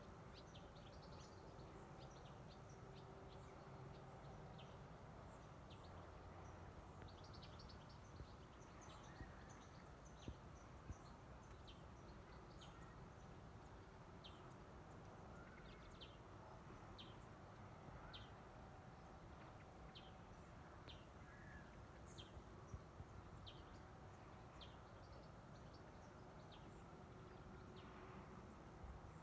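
Faint birds chirping: many short, high chirps scattered throughout, over a low steady background rumble.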